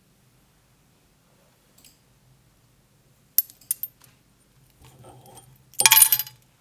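Drill press working on a hard object: three sharp metallic clinks, then a low motor hum and a loud burst of crunching clatter near the end, as the object breaks up under the bit.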